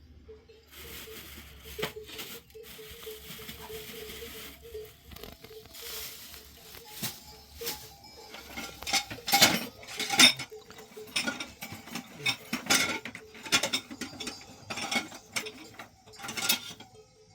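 A run of irregular clicks and knocks, sparse at first and then busier and louder after about eight seconds.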